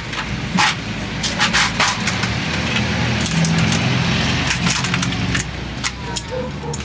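Sharp metallic clinks and knocks of hand tools and engine parts as a scooter engine is taken apart for cleaning, irregular and scattered throughout. A steady low vehicle engine hum runs underneath.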